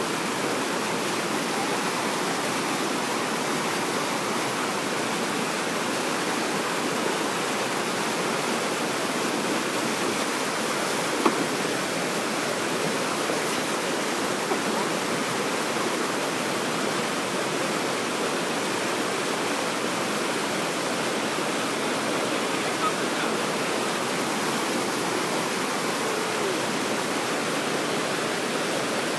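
Steady rushing of water pouring over a river weir, with a single sharp click about eleven seconds in.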